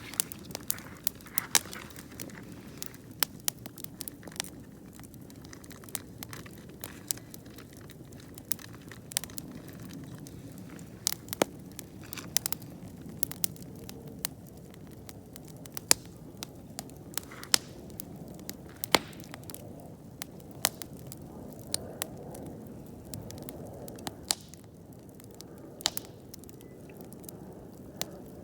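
Wood campfire burning: irregular sharp crackles and pops, several a second at times, over a steady low hiss of the flames.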